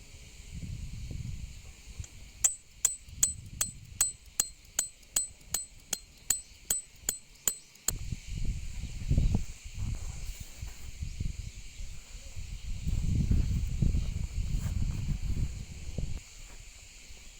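A quick, steady run of about fifteen sharp, ringing metallic taps, a little under three a second, stopping about eight seconds in. Gusts of wind rumble on the microphone before and after.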